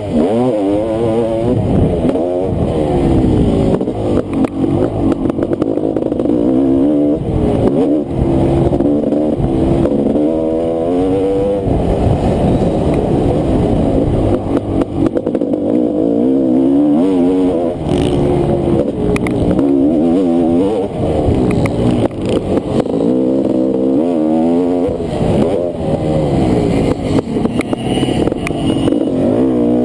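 Honda CR500 two-stroke single-cylinder motocross engine racing, revving up and falling back over and over as the throttle is opened and shut off. There are short sharp rasps where it shifts or chops the throttle.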